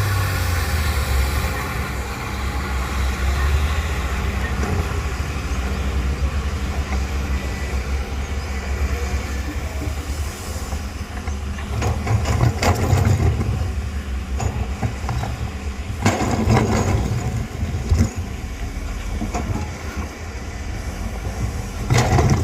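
Excavator's diesel engine running with a steady low drone, broken about halfway through and twice more near the end by short bursts of clattering and scraping from the digging work.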